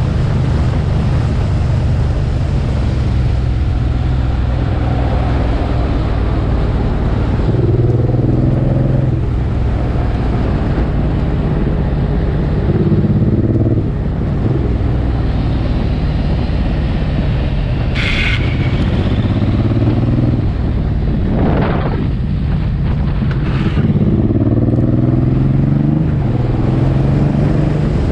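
Suzuki Boulevard M109R's 1783 cc V-twin engine running on the move, its note rising several times as the rider accelerates. There is a brief sharp click about two-thirds of the way through.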